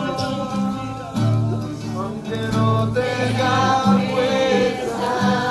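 Music: acoustic guitar playing with singing.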